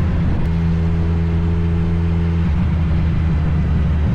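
Motorcycle engine running at steady revs under way, over a haze of wind and road noise; the engine note shifts about two and a half seconds in, then steadies again.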